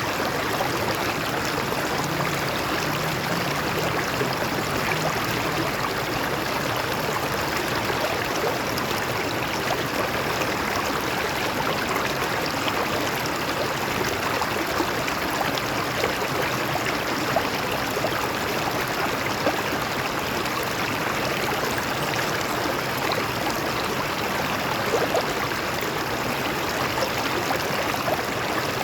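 A stream of water flowing steadily over rocks, a constant rushing with small splashes and gurgles.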